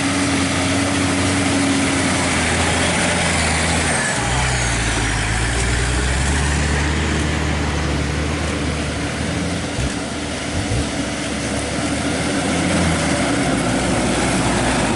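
Motor vehicle engine running while driving, over a steady wash of road and wind noise. The engine note changes about four seconds in, and two short thumps come near the middle.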